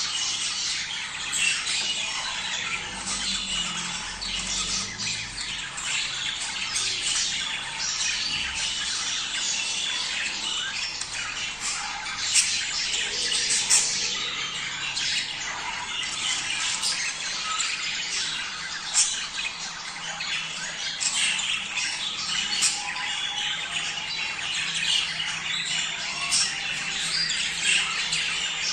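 A flock of budgerigars chattering: a steady, dense mix of warbling, chirps and squawks, with sharper single calls standing out every second or two.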